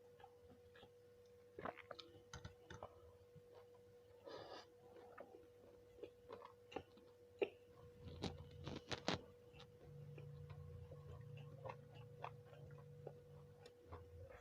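Quiet eating sounds: chewing, with scattered light clicks and taps and a short cluster of sharper clicks past the middle, over a faint steady hum.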